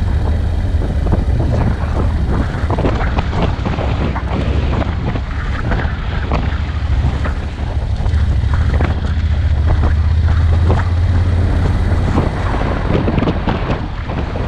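Vehicle driving over a rough, muddy dirt track: a steady low rumble with many small knocks and rattles from the bumps, and wind buffeting the microphone.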